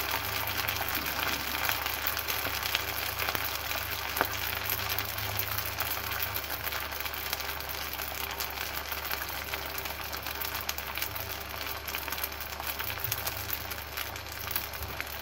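Flat cake of fresh phở rice noodles deep-frying in plenty of hot oil over high heat, sizzling and crackling steadily.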